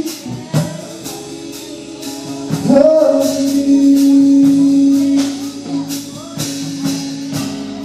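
Live gospel praise-team music: singing over a steady beat of regular sharp hits, with one long note held for a couple of seconds starting about a third of the way in.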